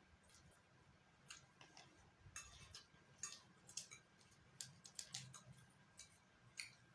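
Near silence with faint, irregular small clicks and smacks of eating, about a dozen, bunched in the middle.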